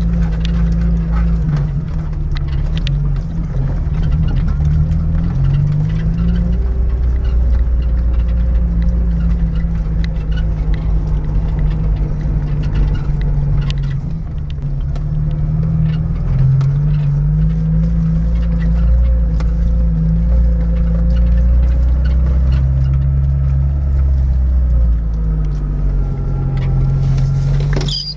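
Niva 4x4's engine working up a steep, rough climb, with a heavy low rumble and an engine pitch that rises and falls as the revs change. Scattered short knocks and clicks come through the whole way.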